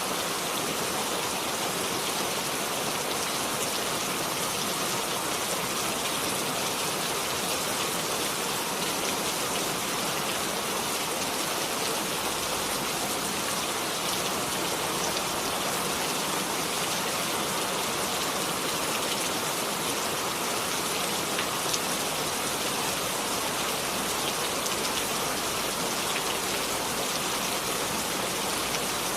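Steady rain falling on a surface: a constant hiss of heavy rainfall with fine droplet patter, unchanging throughout.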